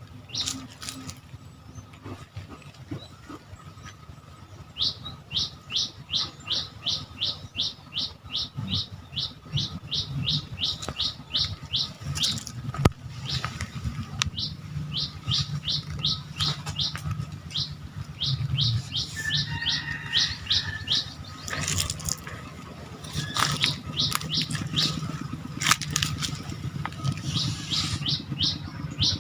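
A bird calling in long runs of short, high, evenly repeated notes, about three a second, broken by a few pauses. A steady low hum runs underneath.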